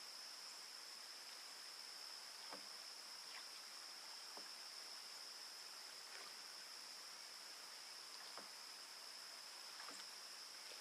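Evening insect chorus, likely crickets, as one steady high-pitched trill, with a few faint ticks scattered through it.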